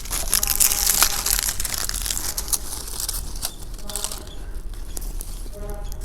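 Dry coconut palm fronds burning among small firewood sticks, with a dense crackling and hiss that is busiest in the first couple of seconds as the leaves catch.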